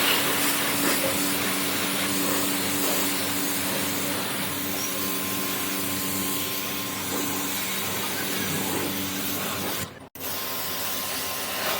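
Portable high-pressure jet pump washer running, its motor humming under a steady hiss of water spray on split AC units. The sound briefly cuts out about ten seconds in, then resumes.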